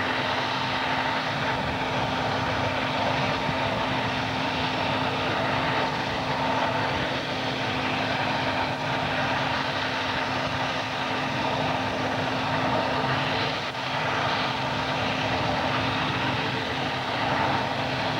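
Modified pulling tractor's engines running loud and steady, with a constant low hum under the noise.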